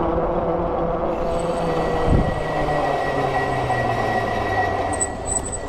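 Freego X2 electric dirt bike riding along: a steady whine from the electric motor over tyre and wind noise.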